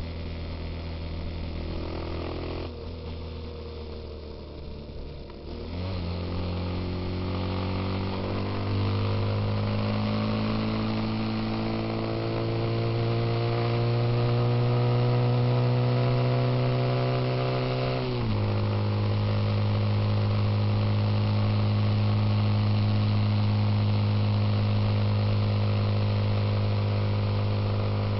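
Suzuki Intruder motorcycle engine running under way. It eases off briefly, then pulls with a slowly rising pitch for about twelve seconds. At about 18 seconds the pitch drops at a gear change, and the engine runs steadily after that.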